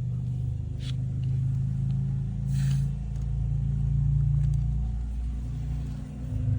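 A steady low engine-like rumble runs throughout. Twice, about a second in and again midway, water swishes briefly as it sloshes inside the canoe being rocked.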